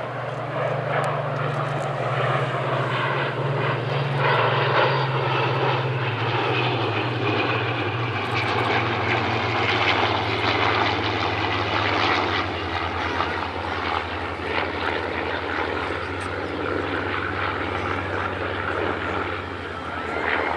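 A Hawker Hurricane and a Supermarine Spitfire flying past together, their V12 piston engines and propellers giving a steady drone. It swells to its loudest about halfway through, then the pitch drops slightly as they pass.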